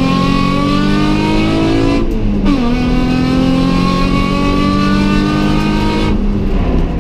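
Nissan Fairlady Z33's 3.5-litre V6 heard from inside the cabin, revving up under acceleration. About two seconds in the sound briefly drops out and falls in pitch, as in an upshift, then climbs again; about six seconds in the throttle eases off.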